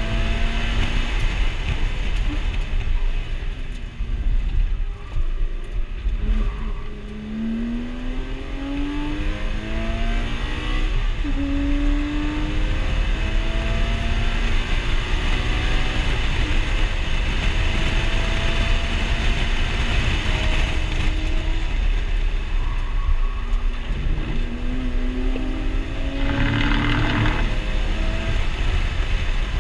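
Porsche engine heard from inside the cabin under hard track driving, its pitch rising repeatedly as it revs up through the gears and dropping back at shifts and lifts. A short burst of noise comes near the end.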